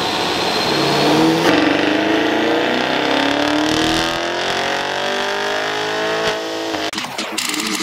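Stock Chevrolet Camaro SS's 6.2-litre V8 under full throttle in a pull on a chassis dyno, its exhaust note climbing steadily in pitch for several seconds, then dropping off near the end.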